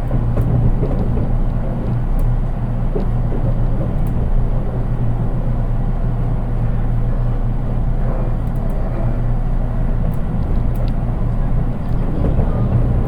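Interior running sound of a JR East 183 series electric train, heard from its unpowered KuHa 183 driving trailer car: a steady low rumble of the car rolling along the rails, with a few faint clicks. With no motors under this car, the sound is plain and subdued.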